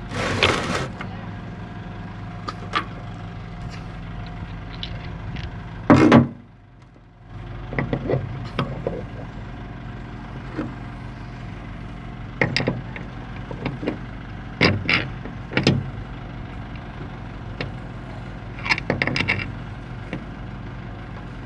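Scattered metal knocks and clicks from excavator swing-motor gear parts being handled and wiggled to check for play, over a steady machine hum. The sound drops out briefly about six seconds in.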